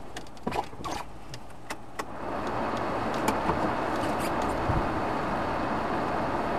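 A few clicks and knocks inside a car, then about two seconds in the car's engine and running noise come up and hold steady as the car sets off.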